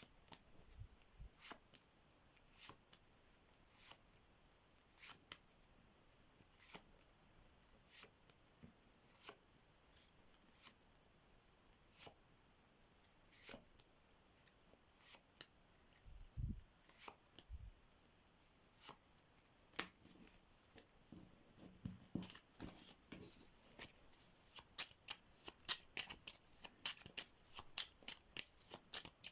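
A deck of playing cards being handled, with faint crisp card snaps about once every second and a bit. Two dull low thumps come about halfway, then a quick run of snaps in the last few seconds as the deck is shuffled.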